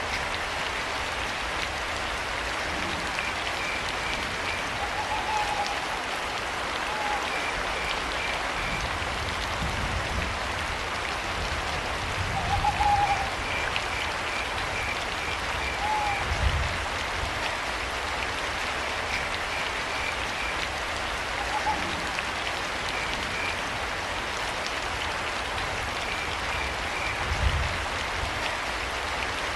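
Steady rain falling, with crickets chirping in short trains of high pulses and an owl giving short hoots every few seconds. A few soft low rumbles come and go underneath.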